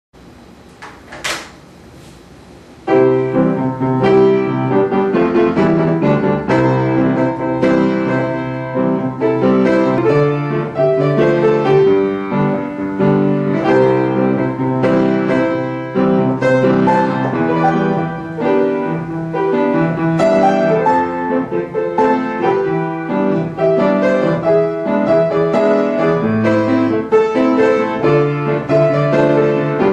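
Solo piano playing a pop-ballad arrangement, with chords, a melody and a walking bass line starting about three seconds in. A short soft noise comes about a second in, before the playing begins.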